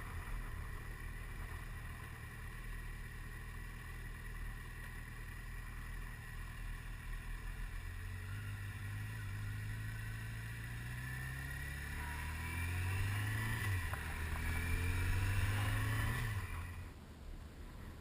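Motorcycle engine accelerating, its pitch climbing, dropping at a gear change, and climbing again before cutting off, over a steady low rumble of wind and road noise.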